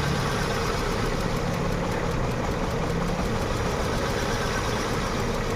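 Hyundai Venue's four-cylinder petrol engine idling and missing: injectors 1 and 2 get no pulse, a fault traced to the engine control module, so those cylinders misfire.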